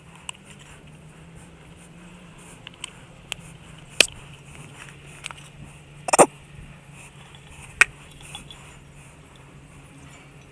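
A steady low hum with several sharp clicks and knocks over it. The loudest knocks come about four seconds in, a short cluster about six seconds in, and one more near eight seconds.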